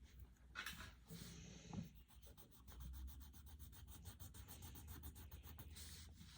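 Faint scratching of a coloured pencil scribbling back and forth on paper, quick even strokes several times a second from about two seconds in.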